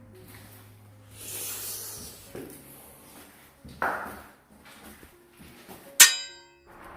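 A few soft knocks, then a sharp metallic clang near the end that rings briefly, with a short hiss about a second in.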